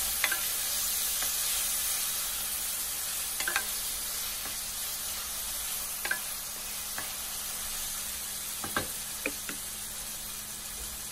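Onions and tomatoes sizzling in oil in a stainless steel pot, stirred with a wooden spatula that knocks lightly against the pot a few times.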